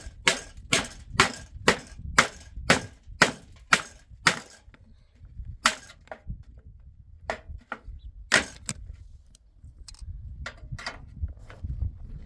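Hammering: steady blows about two a second that stop about four seconds in, followed by a handful of single, spaced-out blows.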